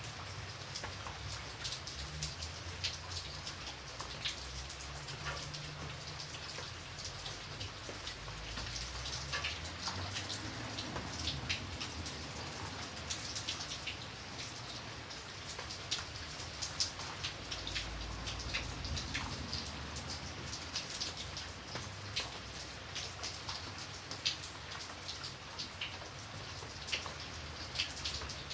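Steady rain with many distinct raindrops ticking and pattering on a surface, over a low rumble.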